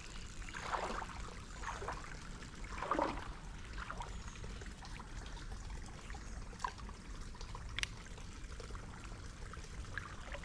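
Shallow creek water trickling, with a few soft splashes in the first few seconds.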